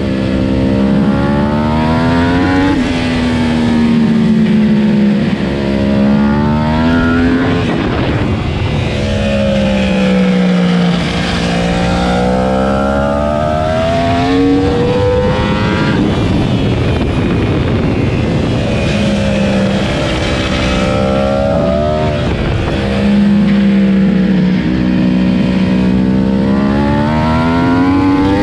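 Yamaha R1 superbike's inline-four engine at racing speed, its pitch sinking and climbing again over and over as the rider shuts off for corners and then accelerates out.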